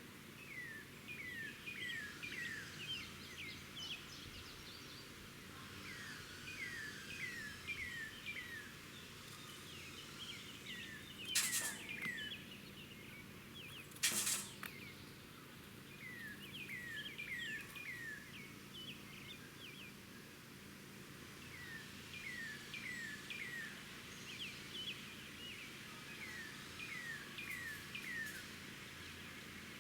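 Songbird singing repeated phrases of four or five quick down-slurred whistled notes, a new phrase every few seconds, over a steady outdoor background. Two sharp knocks come about two and a half seconds apart near the middle.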